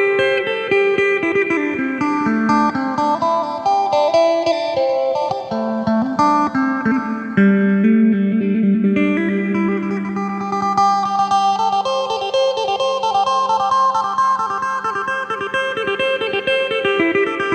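Four-string, 18-fret electric phin (Isan lute) with a jackfruit-wood body being played: quick plucked melody runs, and from a little under halfway a low drone note held under the melody.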